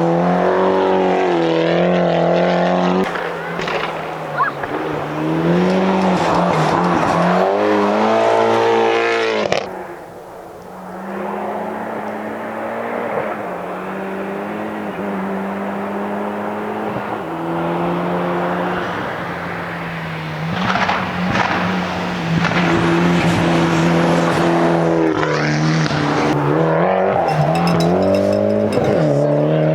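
Mitsubishi Lancer Evolution rally car's turbocharged four-cylinder engine at full effort, its pitch climbing and dropping again and again through gear changes. It eases to a quieter, steadier note about ten seconds in, then revs hard again for the last several seconds.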